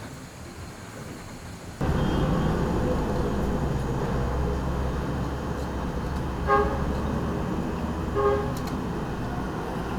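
Street traffic rumbling steadily, starting abruptly about two seconds in, with two short vehicle horn toots a couple of seconds apart in the second half.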